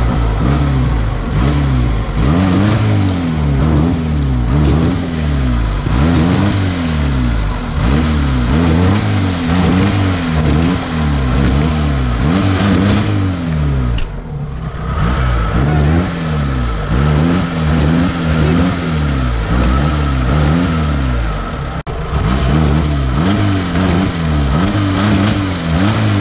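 Off-road vehicle's engine revving up and falling back over and over, about once every second or so. It breaks off briefly about fourteen seconds in and again near the end.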